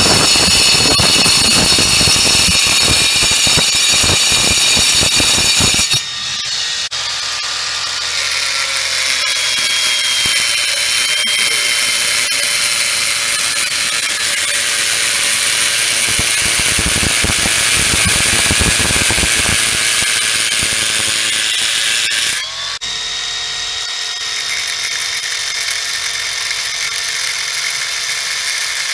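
Power cutter with a low-noise diamond stone-cutting blade. It cuts through stone with a gritty grinding noise for the first six seconds and again around 16 to 20 seconds in. In between and near the end the blade spins with a quieter, steady whine.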